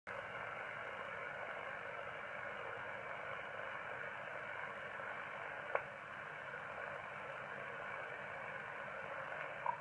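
Steady hiss of an AOR AR8600 Mk2 receiver on an open HF aeronautical voice channel, heard through a bhi DSP noise-eliminating speaker: band-limited static with no signal on frequency. A single short click about six seconds in.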